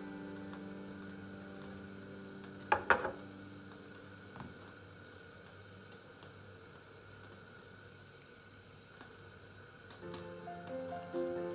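Food sizzling as it fries in a pan, a faint steady crackle, with a sharp double clatter about three seconds in and a lighter knock a second later. Background music fades out at the start and comes back near the end.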